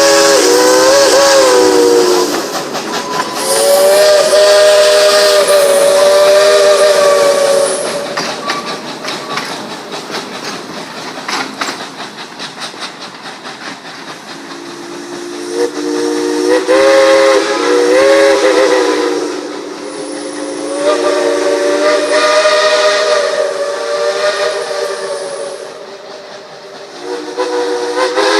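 Steam locomotive chime whistle blowing a series of long blasts, several notes sounding together, with the pitch wavering as each blast opens. Between the blasts, from about 8 to 15 seconds in, there is a stretch of steam hiss.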